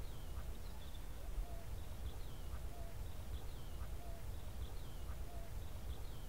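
Outdoor ambience: a steady low rumble with faint small bird chirps, a short call repeating about every second or so.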